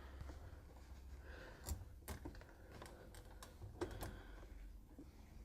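Faint, scattered clicks and taps as a spring-loaded door-seal retaining band is worked onto the rim of a front-loading washing machine, over a low steady hum.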